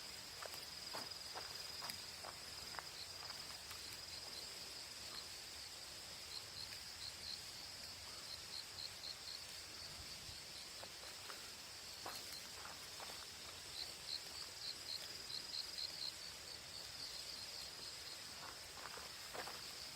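Autumn field insects, crickets among them, trilling steadily in a high continuous chorus with a pulsing chirp beneath it. Footsteps are heard near the start and again near the end.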